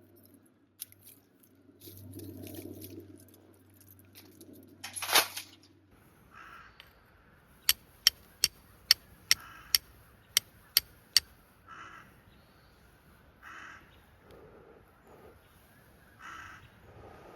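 A few short bird calls, with a quick run of about nine sharp clicks in the middle; about five seconds in there is one loud short knock or rustle.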